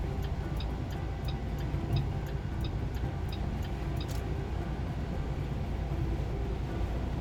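Turn signal clicking in a semi-truck's cab, about three clicks a second, stopping about four seconds in, as the driver changes lanes to pass a slower vehicle. Underneath is the steady low drone of the truck's engine and road noise.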